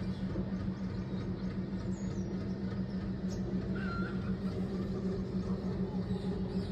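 A steady low hum with a fast pulse, with a few faint, short high chirps: about two seconds in and again about four seconds in.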